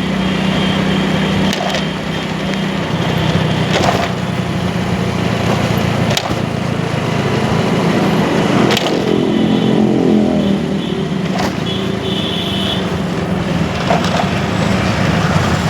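Motorcycle engine running steadily under way, with road noise and several sharp clicks.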